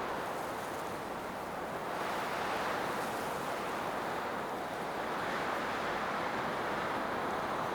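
Blizzard wind blowing as a dense, rushing noise that swells and eases in gusts.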